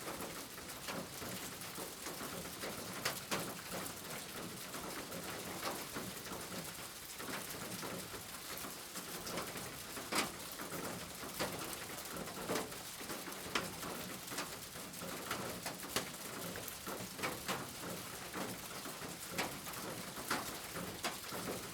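Steady rain falling, with irregular sharp drips and taps of larger drops landing close by.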